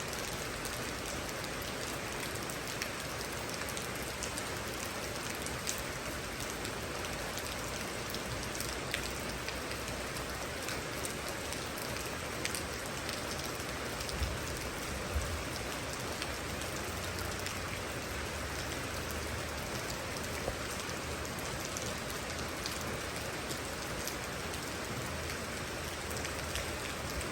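Steady rain falling, with individual drops tapping sharply here and there over the even hiss. A faint low rumble comes in briefly about halfway through.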